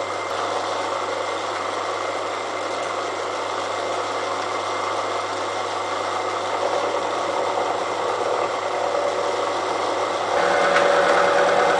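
Small milling machine running, its cutter taking a 15-thou pass across a steel railway-rail anvil. About ten seconds in the sound steps up and grows louder as the cutter bites into the steel.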